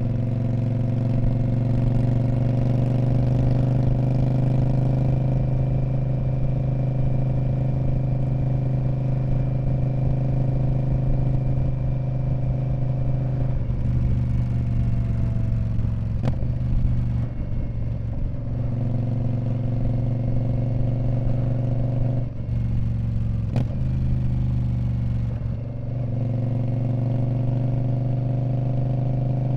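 2019 Indian Scout Bobber's 1133 cc V-twin running through a Freedom Performance Radical Radius exhaust at a steady engine speed. In the second half the exhaust note breaks up and dips several times, with a couple of sharp clicks.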